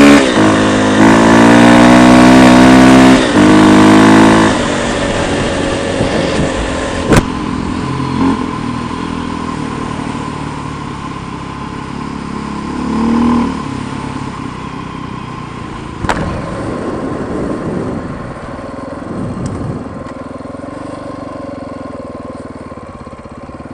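Single-cylinder four-stroke KTM enduro dirt bike engine pulling under throttle with its pitch shifting, then eased off about four and a half seconds in to a much quieter, steady low-speed run with a couple of short swells and two sharp clicks.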